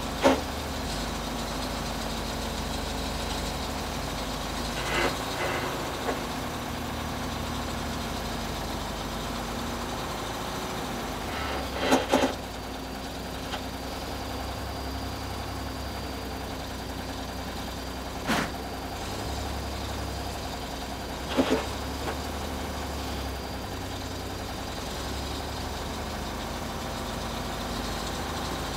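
Backhoe loader's diesel engine running steadily, with several sharp knocks and clunks at irregular intervals.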